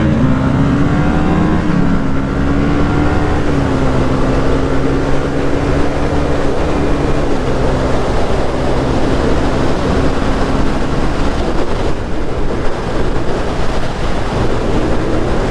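Motorcycle engine running at a steady cruise with wind rushing over the microphone. The engine note holds nearly level, then eases off and fades into the wind noise about 11 seconds in.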